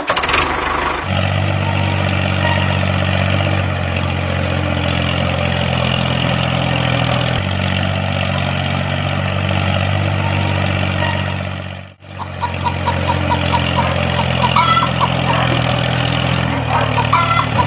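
Heavy vehicle engine idling steadily, cutting out briefly about twelve seconds in and then running again with a rapid light ticking over it.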